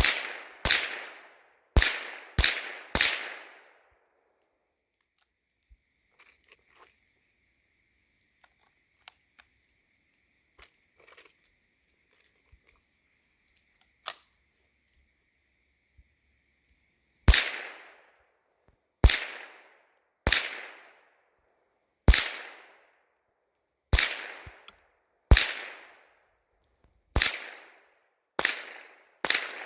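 Rifle shots: five in quick succession, then after a long pause a single crack, then a steady string of about nine more roughly a second and a half apart, each trailing off in a short echo.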